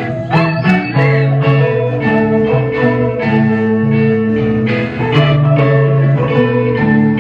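Live blues-roots band playing an instrumental passage: guitar over bass, with drums keeping a steady beat and a few sliding notes in the first second.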